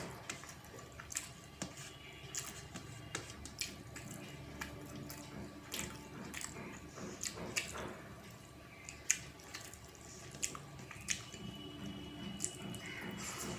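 Eating sounds: irregular wet clicks and smacks of rice and fish curry being eaten and chewed.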